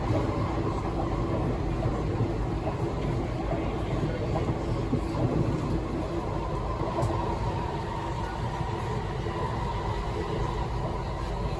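Kawasaki–CRRC Qingdao SiFang C151C metro train running between stations, heard from inside the carriage: a steady, echoey traction-motor hum over wheel and track rumble, with rain mode on. One of the motor tones drops away about halfway through.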